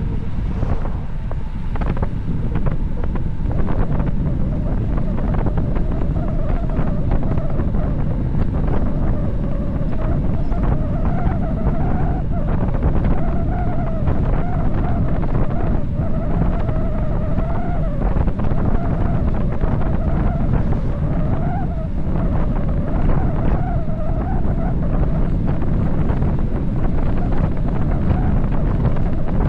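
Wind buffeting the microphone on a bicycle descending at high speed, a steady heavy rumble. Through the middle a wavering whine rises and dips over the wind, then fades out a few seconds before the end.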